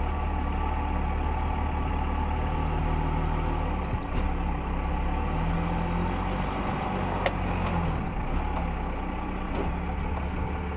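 Vehicle engine running steadily, its pitch shifting a little a few times as it works, with a couple of faint knocks about four and seven seconds in.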